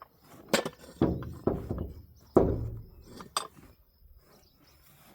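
About five heavy knocks and clanks, irregularly spaced, two of them followed by a deep rumbling decay.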